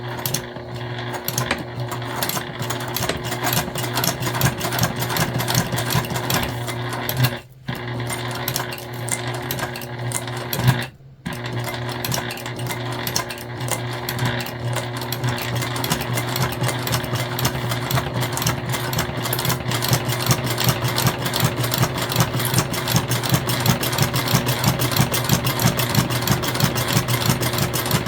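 Sewing machine with a walking foot running steadily, stitching a seam through jelly vinyl, with a steady hum under rapid needle ticking. It stops briefly twice, about a third of the way in and again a few seconds later, then runs on.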